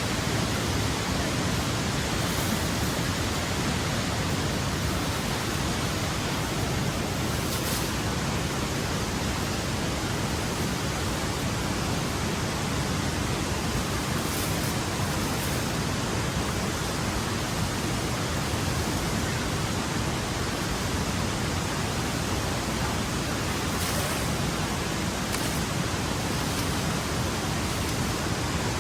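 A steady, even rushing noise that does not change, with a few faint brief ticks.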